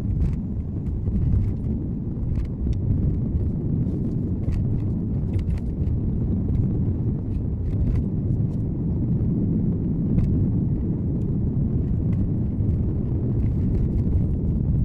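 Car driving, heard from inside the cabin through a dashboard camera's microphone: a steady low rumble of road and engine noise, with scattered faint ticks.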